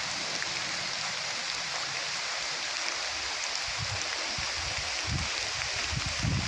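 Steady rushing of a flowing stream, an even hiss without breaks, with a few soft low bumps in the second half.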